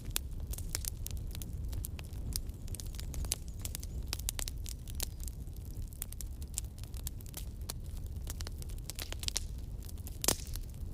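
Campfire burning, the wood crackling with irregular sharp pops over a low steady rumble, one louder pop near the end.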